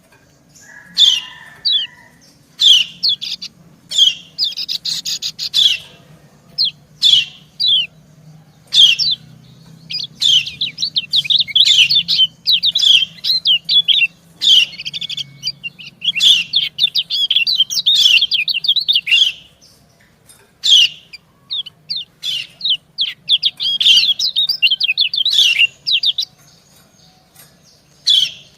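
White-eyes calling: a female yellow white-eye gives sharp, short 'ciak' call notes, answered by rapid twittering song from a male. Long runs of fast twitter come about a third of the way in and again later on.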